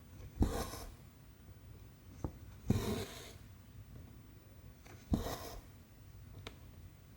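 Cotton embroidery thread pulled through 14-count cross-stitch canvas, three times at an even pace. Each pull starts with a sharp tick as the needle pierces the fabric, followed by a half-second rasping swish of the thread running through. Faint small ticks fall between the pulls.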